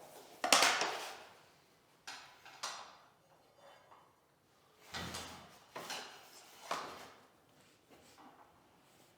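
Irregular knocks and clatter of vinyl click planks being handled and set into place, the loudest about half a second in.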